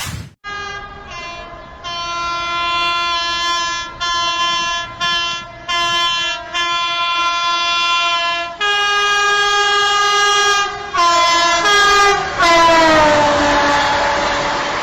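The Turbini gas-turbine train's multi-tone horn, sounded as a series of blasts with short breaks that shift between chords like a melody. Near the end the horn's pitch slides down while a loud rushing noise swells.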